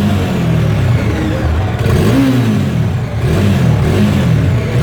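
Bajaj Dominar 400's 373 cc single-cylinder engine being revved through its exhaust in repeated throttle blips, the pitch rising and falling every second or so.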